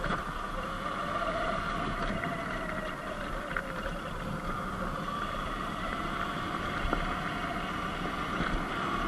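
Sur-Ron Light Bee X electric dirt bike under way: the electric motor's whine wavers slightly in pitch over steady wind and tyre noise.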